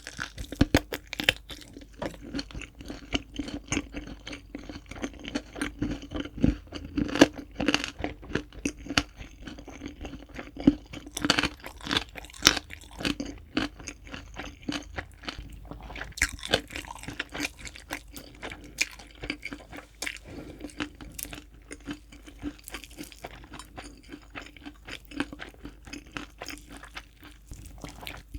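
Close-miked chewing of crispy fried chicken: irregular crackly crunches of the fried coating between the teeth, going on throughout.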